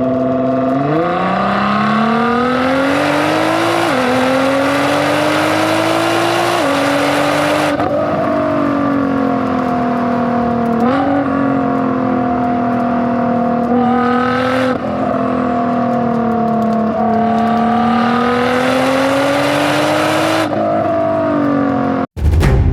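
Nissan GT-R R35's twin-turbo V6 engine accelerating, its pitch climbing and dropping back at upshifts about four and seven seconds in, then running at a steady, gently rising and falling pitch, with several abrupt cuts between shots.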